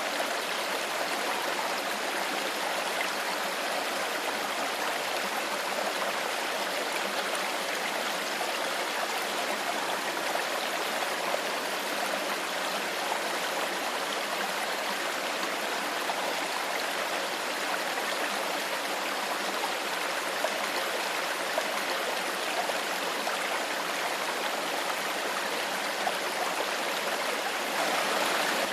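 Shallow stream of clear water flowing steadily with an even, continuous rush and babble.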